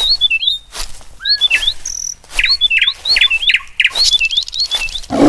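A songbird repeating a short whistled phrase over and over, each with quick up-and-down sweeps, with sharp clicks among the notes. Right at the end a loud, low roar begins.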